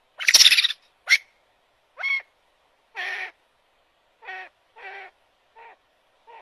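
A bird calling: about eight short calls roughly a second apart, the first the loudest and each later one fainter.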